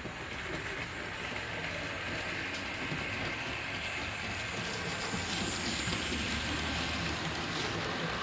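Model train running along the layout track, steadily getting louder over the first few seconds.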